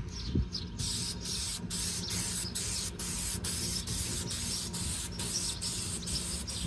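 Aerosol paint stripper spraying onto a steel helmet in repeated hissing bursts, about two a second with short breaks between them.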